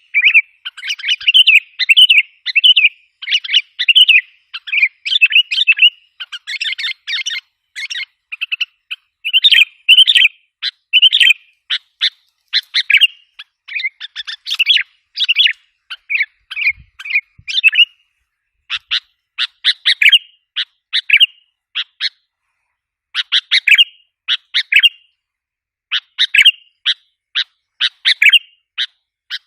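Sooty-headed bulbul (kutilang) lure call: loud, rapid chattering call phrases repeated over and over, meant to provoke wild bulbuls. The phrases run almost back to back at first and come in more spaced-out bursts in the second half.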